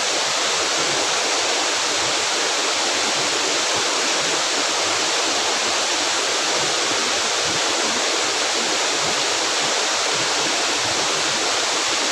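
Waterfall water pouring and splashing in a loud, steady rush.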